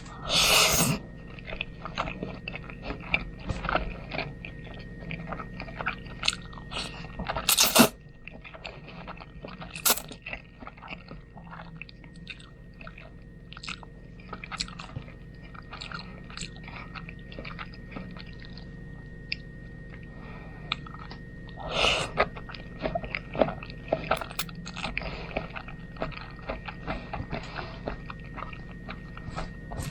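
Close-up chewing of spaghetti: a steady run of wet mouth clicks and smacks, with a few louder, longer mouth noises scattered through, the first one at the very start.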